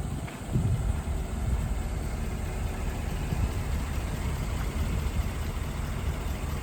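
Engine of a 2021 Chevrolet LCF box truck idling with a steady low rumble, growing louder about half a second in.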